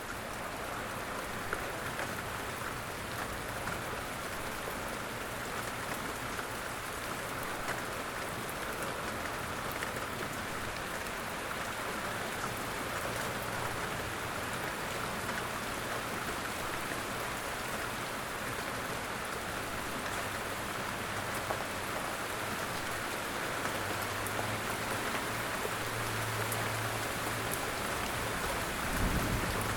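Steady light rain falling on a forest, a continuous patter with scattered individual drops. A faint low hum sits underneath, and there is a brief low thump near the end.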